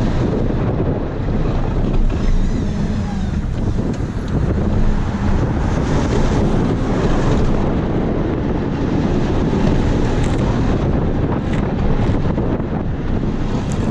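Wind buffeting the microphone, steady and heavy, over the low drone of a running vehicle engine.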